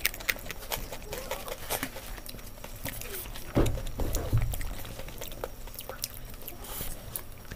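Close-miked eating sounds: chewing, lip smacks and small mouth clicks as noodles and fried food are eaten by hand, with a louder dull thump about three and a half seconds in.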